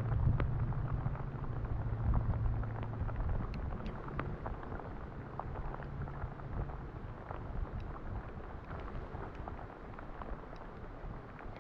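Rain falling, with many small drop ticks on surfaces, and the low hum of a vehicle engine fading away over the first few seconds.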